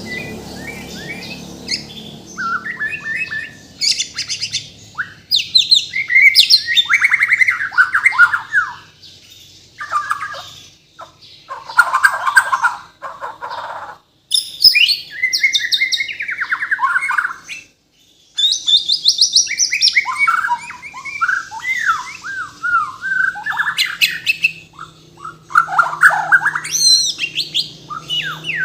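White-rumped shama (Bornean murai batu) singing a loud, varied song of quick whistled sweeps and rapid trills, packed with mimicked phrases, with short pauses between bursts.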